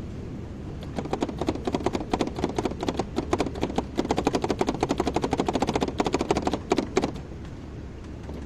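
Kobelco excavator running with a steady low engine hum, overlaid from about a second in by a fast train of clattering metallic knocks that stops about a second and a half before the end.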